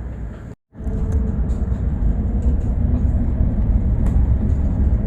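Bus ride noise from inside the bus: a steady low rumble of engine and road with faint rattles. It cuts to silence for an instant just over half a second in, then comes back louder.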